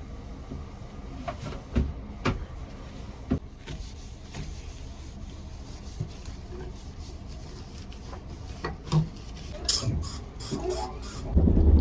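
Scattered light knocks, clicks and rubbing, as of objects being handled, over a low steady rumble; a cluster of sharp clicks comes about ten seconds in, and a much louder low rumble sets in near the end.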